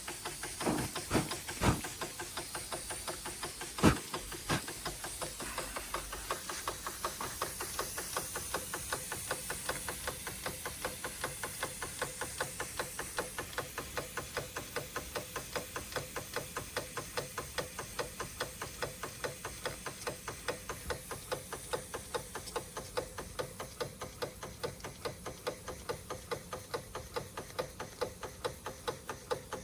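Märklin 4149/9 live-steam stationary engine running on after its burner has been blown out: an even beat of about three strokes a second over a hiss of steam. A few louder knocks come in the first four seconds.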